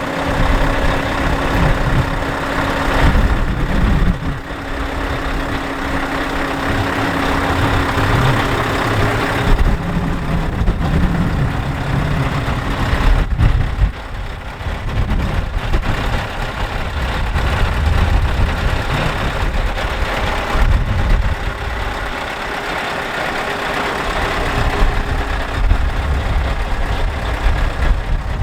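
Scania R520 6x4 truck's V8 diesel engine running at idle, its sound rising and falling in level.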